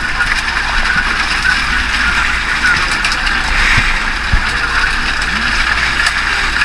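Steady noise of a small motorized fishing boat underway, its engine running without change.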